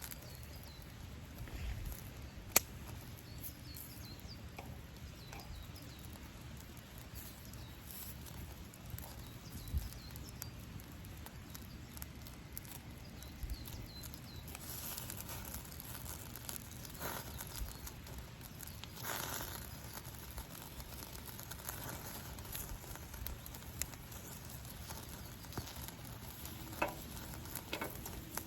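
Campfire crackling quietly, with scattered small pops and a sharp snap about two and a half seconds in.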